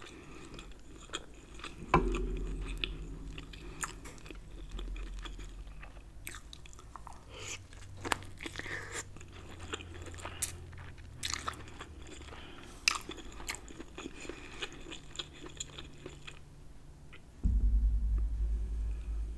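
Close-miked chewing and biting of king crab claw meat in Alfredo sauce: wet, sticky mouth sounds with many small clicks and smacks. A low rumble comes in near the end.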